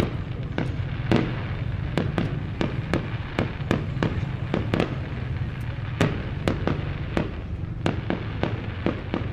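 New Year's Eve fireworks bursting in a steady stream of sharp bangs, about two or three a second, over a continuous low rumble.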